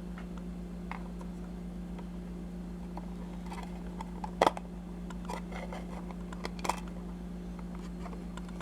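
A few light clicks and taps of a small toy horse box trailer being handled, the sharpest about halfway through, over a steady electrical hum.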